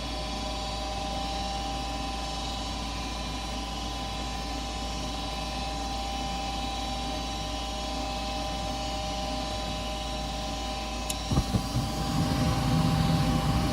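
Goodman gas furnace running its inducer (draft) motor, a steady whir with a faint whine. About eleven seconds in there is a click, and the burners then light, bringing in a low rumble that grows louder.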